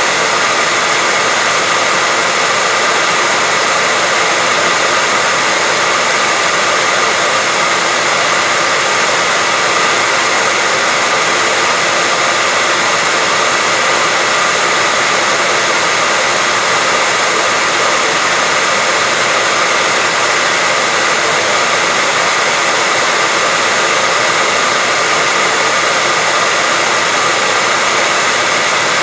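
Electric hair dryer running continuously: a steady, loud rush of blown air with a faint whine from the motor, played as white noise to lull a baby to sleep.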